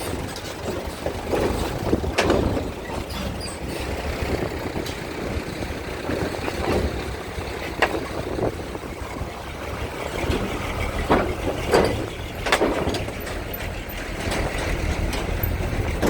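A steady low engine rumble under gusty wind noise, with several short, sharp knocks.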